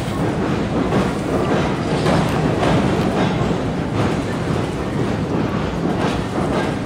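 Tobu Isesaki Line train crossing the Sumida River railway bridge: a steady rumble with the wheels clacking over rail joints about once a second.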